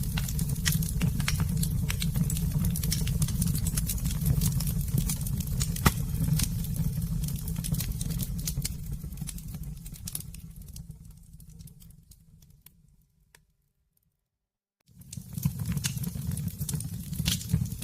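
Campfire crackling, with irregular sharp pops and snaps over a steady low rumble. The crackle fades away to silence about two-thirds of the way through, then comes back abruptly a couple of seconds later.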